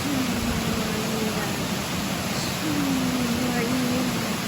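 A woman's voice intoning light language in two long held notes, each sliding down a little at the start and then held, over the steady rush of flowing water.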